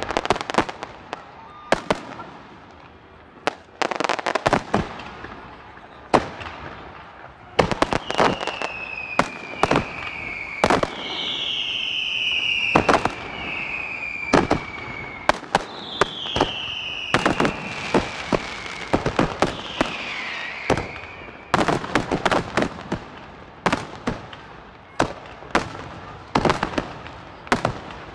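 Aerial fireworks finale: a rapid barrage of shell bursts and bangs, with several long, high whistles falling slightly in pitch through the middle stretch.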